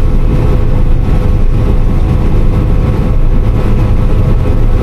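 Combine harvester running steadily while harvesting, a constant low engine and machinery drone with a steady hum over it.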